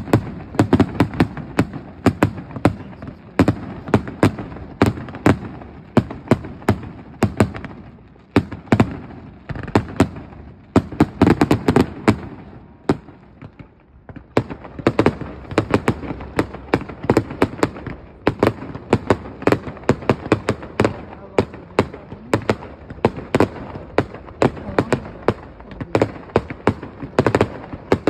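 Fireworks display: aerial shells launching and bursting in quick succession, a dense string of sharp bangs several times a second. The firing thins to a brief lull about halfway through, then the rapid bangs resume.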